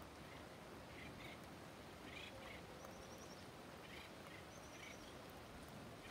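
Faint birdsong: a short, high trill repeated about every two seconds, with scattered lower chirps in between, over a steady background hiss.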